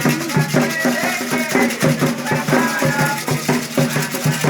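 Candomblé ritual music: drums beating a fast, even rhythm with shaken rattles, and voices singing over it.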